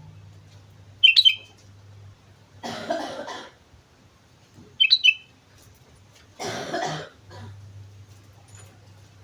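Sooty-headed bulbul (kutilang) giving two short, bright chirpy song phrases, about a second in and again near five seconds. Between them come two short, harsh noisy bursts, at about three and seven seconds.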